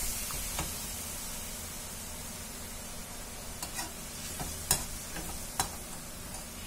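Onion and spice masala, with a little water just added, sizzling gently in a metal kadhai as a perforated metal spoon stirs it. The spoon scrapes and clinks against the pan a few times, with two louder clinks in the second half.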